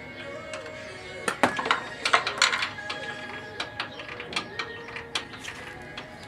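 Irregular metallic clicks and clanks of hand tools being handled, loudest in a cluster about one and a half to two and a half seconds in.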